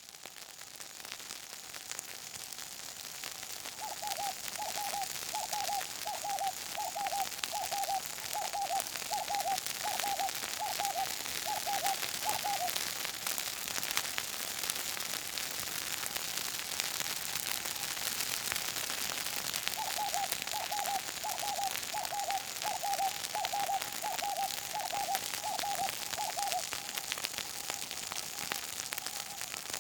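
Bush fire burning, with a steady hiss and a dense crackle of small pops. A bird calls over it, twice, each time in a run of about a dozen short hooting notes.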